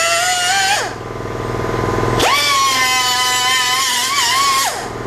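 Handheld power cutting tool running with a high whine that wavers under load, released under a second in and winding down, then triggered again a little after two seconds in, spinning up fast, running a couple of seconds and winding down again near the end.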